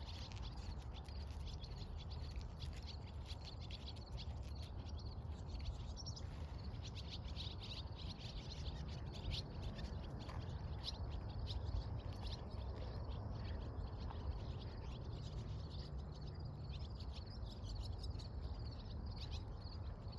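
Several small birds chirping and singing in quick, overlapping short notes, over a steady low rumble.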